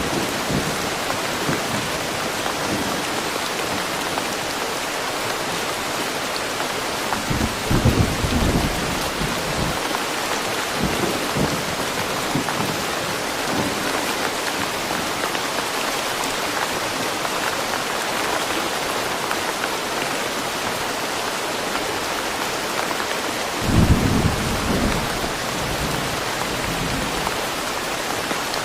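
Steady rain falling in woodland, a dense even hiss, with two brief low rumbles of thunder, the first about a third of the way in and the second several seconds before the end.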